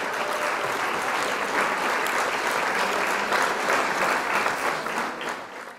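Applause from many hands clapping, steady, then fading out near the end.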